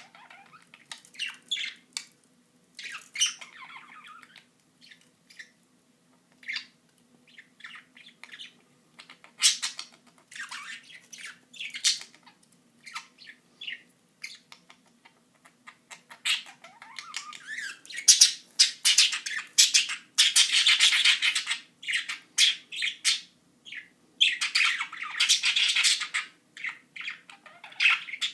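Pet budgerigars chirping and squawking in short calls. The calls thicken into loud, continuous chatter about two-thirds of the way in and again near the end.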